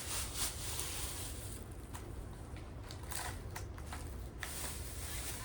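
Rustling and crinkling of a biscuit packet being handled and opened, with scattered light clicks and crackles.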